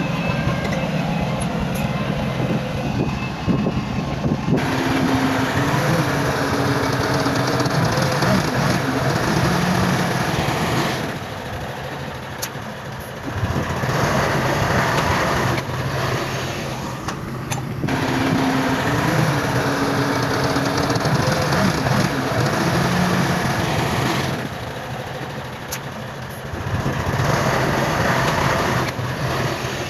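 Heavy earthmoving machinery at work: big diesel engines running under load, their pitch rising and falling as they rev, easing off twice for a couple of seconds.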